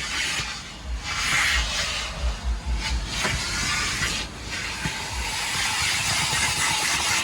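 Large self-service car wash vacuum running, a steady airy hiss of rushing air that dips briefly about a second in and again past the middle, over an uneven low rumble.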